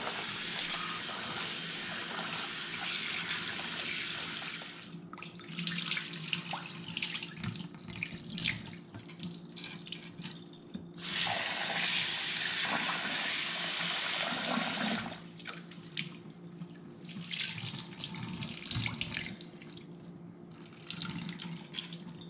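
Kitchen tap running into a bowl of basmati rice as it is washed to rinse off the starch. The steady flow runs three times, about five, four and two seconds long, and between runs the water and rice are stirred and swished, with small splashes and clicks.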